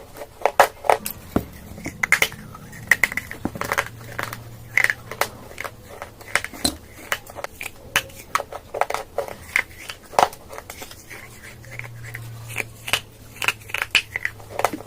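Close-miked crunching of baked clay or chalk being bitten and chewed, a quick irregular run of sharp crunches throughout.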